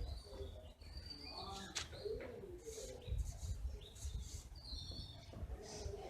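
Birds chirping in short high notes while a dove coos low, with a few sharp clicks, the loudest about two seconds in.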